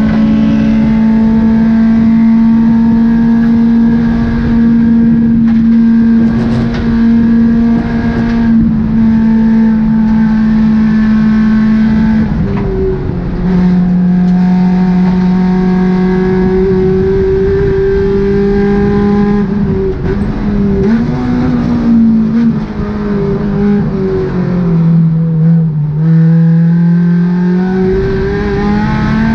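Track car's engine running hard at high revs, heard from inside the stripped, caged cabin on a lap. Its pitch holds steady, drops about twelve seconds in, rises and falls a few times, sinks lowest a little before the end and then climbs again as the car accelerates.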